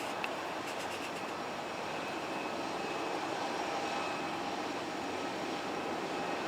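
Jet airliner engines running, heard as a steady rush with a faint high whine.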